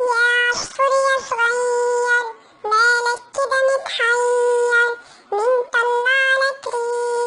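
A children's song sung in the high, pitched-up cartoon voice of the Talking Tom cat, in a run of held notes with short breaks between them.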